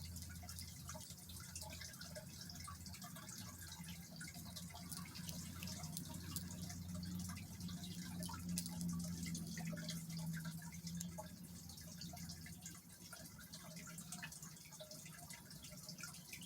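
Many small, irregular clicks and ticks over a steady low hum that swells for several seconds in the middle.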